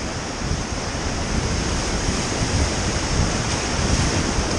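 Whitewater rapids rushing and splashing steadily around an inflatable raft, with wind buffeting the microphone.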